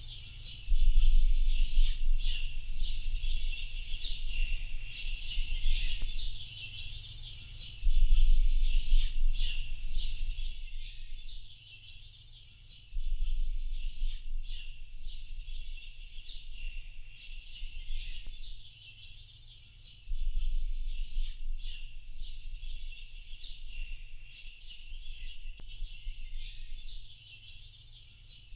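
Dense chorus of many small birds chirping and twittering, with a low rumble that comes and goes in bursts of a few seconds.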